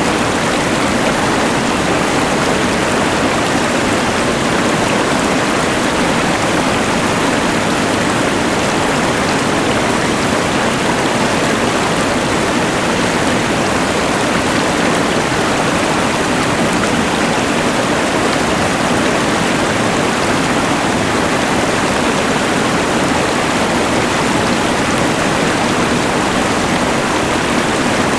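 Rushing mountain river water layered with the hiss of a LectroFan white noise machine: a steady, unchanging wash of noise.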